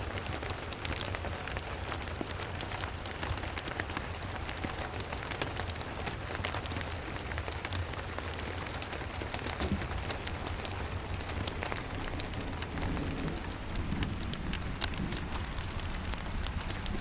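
Steady rain pattering, with many sharp little clicks of drops throughout. A low rumble of distant thunder starts to build in the last few seconds.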